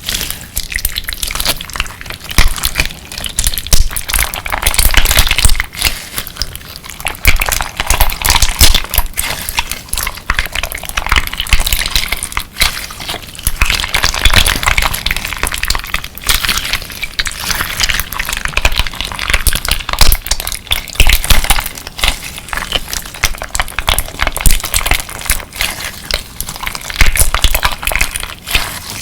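Clear slime packed with colourful crystal pieces being squeezed and kneaded by hand: a continuous crunchy crackling and clicking with wet squishing and soft low thumps.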